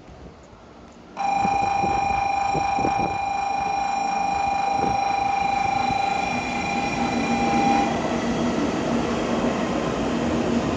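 Shinkansen train at the platform, its running noise starting abruptly about a second in. A steady high-pitched tone sounds over it for about six and a half seconds and then stops, and a lower steady hum continues after.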